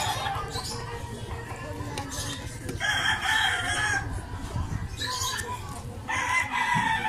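Two long calls from a bird: one held steady about three seconds in, and another falling in pitch near the end.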